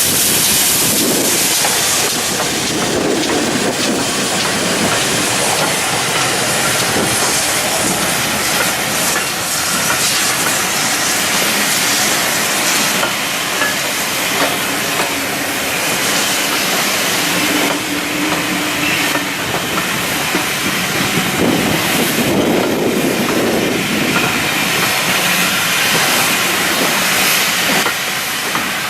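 Steam locomotive running, with steady hissing steam and rail noise.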